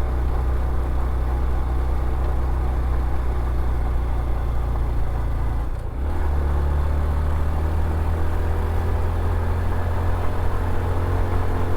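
Honda CT125's single-cylinder engine running steadily under way. About six seconds in the sound dips briefly, and the engine note then runs higher.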